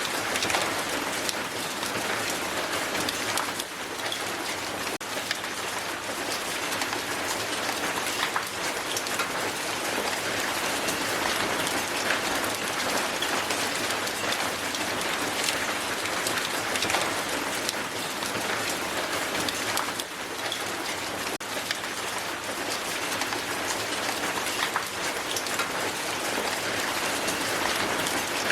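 Hail falling and striking a hard surface: a dense, steady patter of many small impacts with sharper individual hits scattered through.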